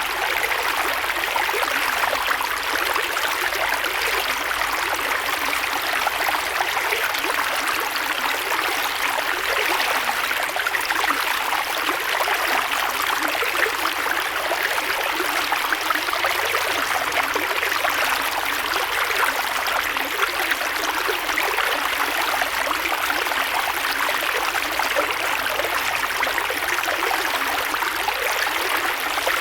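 Creek water flowing and splashing over rocks in a steady rush.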